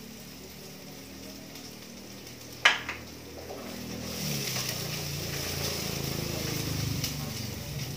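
Tofu frying in a pot with sautéed garlic and onion as it is stirred with a spatula: a sharp knock about two and a half seconds in, then sizzling that swells from about four seconds and stays up.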